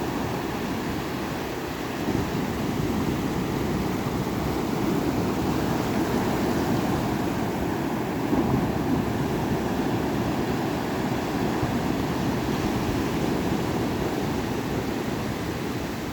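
Ocean surf, a steady rush of waves washing in, with small swells in loudness.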